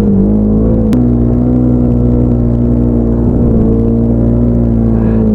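Snowmobile engine running at steady, fairly high revs, its pitch holding nearly constant. There is one sharp click about a second in.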